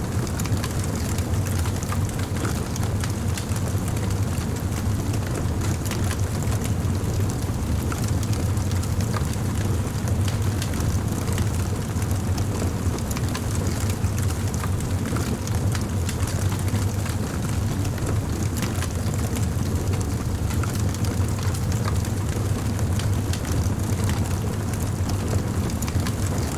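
Bonfire burning: a steady low rush of flames with scattered faint crackles.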